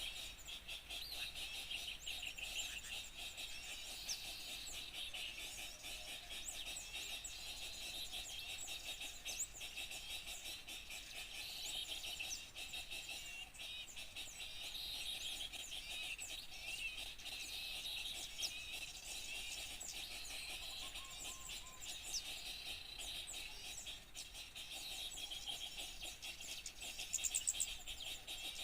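Dense chorus of many small songbirds chirping and twittering over each other, a bird-luring call recording. A short louder run of rapid high notes comes near the end.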